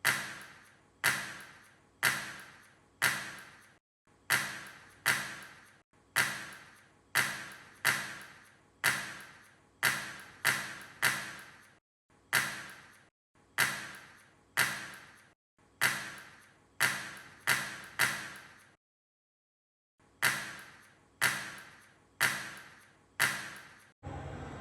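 Repeated sharp metallic clacks from a hand-operated magnet-making press, roughly one stroke a second, each with a short ring.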